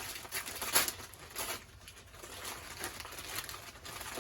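Gift wrapping paper rustling and tearing as a present is unwrapped, in a series of short crinkling rips, the loudest just under a second in.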